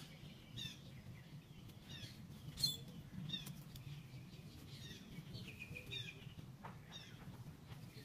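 Songbirds chirping repeatedly in short, high, downward-sliding notes, with one held high note past the midpoint, over a faint low outdoor rumble. A single sharp click about two and a half seconds in.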